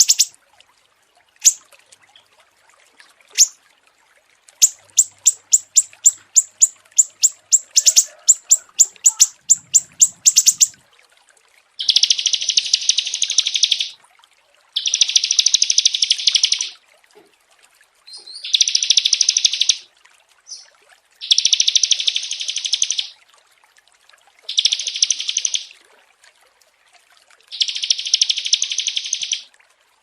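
Small songbirds calling. First a fast run of sharp, high chirps, about three or four a second. Then, from about twelve seconds in, buzzy trills of about two seconds each, repeated every three seconds or so.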